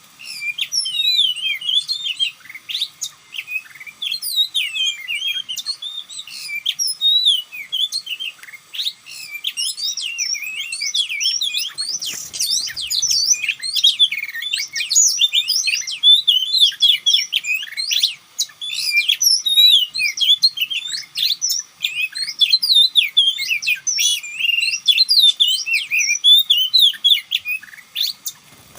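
Oriental magpie-robin (kacer) singing continuously: a dense stream of varied, rapidly gliding whistled phrases with no pauses.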